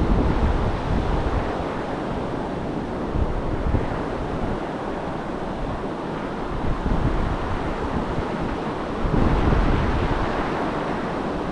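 Gulf surf washing onto the beach, with wind buffeting the microphone in uneven low gusts, swelling a little near the end.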